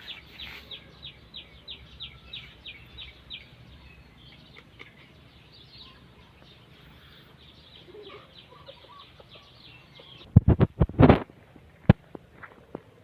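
A bird calling a rapid, even series of short high chirps, each sliding downward, about five a second, which stops a few seconds in. Near the end there is a burst of loud knocks followed by a single sharp click.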